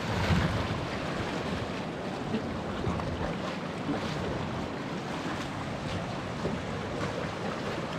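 Sea waves washing and surging at the shore, with wind buffeting the microphone as a steady, uneven rush.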